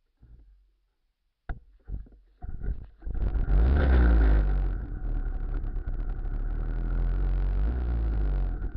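Engine of a Muravey tricycle starting: a few sharp knocks, then about three seconds in it catches and runs loudly, its pitch rising and falling as it is revved.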